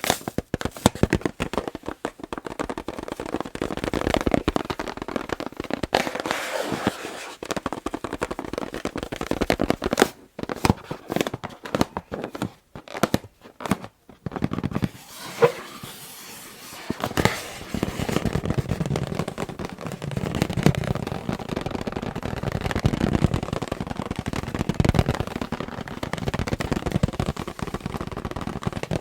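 Fingernails tapping and scratching on an inflated rubber balloon: quick runs of sharp taps with rubbing between them, turning to a lower, softer scratching in the second half.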